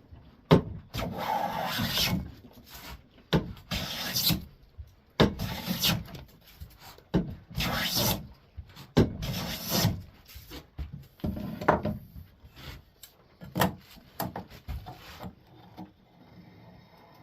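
Hand plane being pushed along a board's edge, each pass a rasping cut as the blade lifts a shaving, about six long strokes a couple of seconds apart, then shorter, lighter strokes and knocks near the end. The edge is being jointed to take down a spot that is still high.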